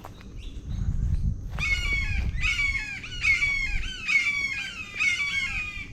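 Red-shouldered hawks calling in alarm while mobbing a great horned owl: a rapid series of loud, clear, downward-sliding screams, about two a second, starting a little over a second in. A low rumbling noise sits under the first couple of seconds.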